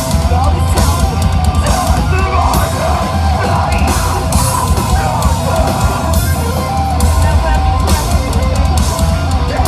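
A rock band playing live at full volume, with a drum kit driving a steady beat under dense, loud instruments.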